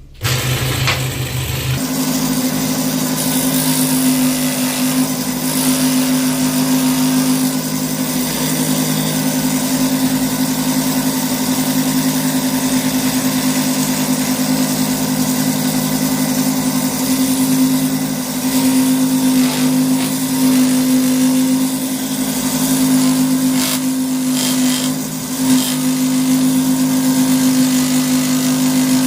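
An electric power-tool motor starts and runs at a steady, constant pitch, stepping up to its running speed about two seconds in.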